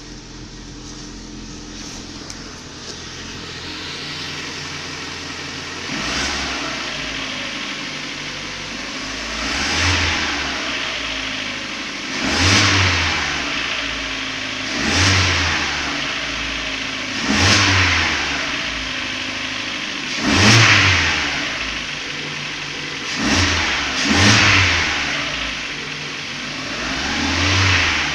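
Cold car engine being revved from idle and let fall, about eight times at intervals of two to three seconds from about six seconds in. An extraneous rumble comes in as the throttle is released and the revs drop, which the owner is trying to pin down.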